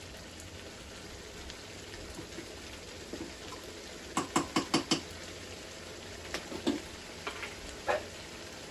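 Ginger, garlic and onion paste sizzling steadily in oil in a nonstick pan, being sautéed to take off the raw bite of the ginger and garlic. A quick run of sharp clicks comes about four seconds in, with a few more single clicks after.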